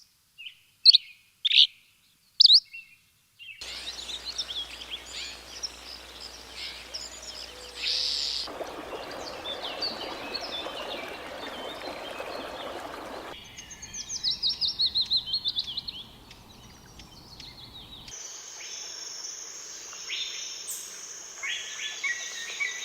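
Songbirds chirping and singing across a series of spliced clips: a few loud, separate chirps in the first seconds, busy overlapping song after that, and a fast run of about nine rapid notes in the middle. Part of the way through, a steady rushing hiss sits under the birds for about five seconds.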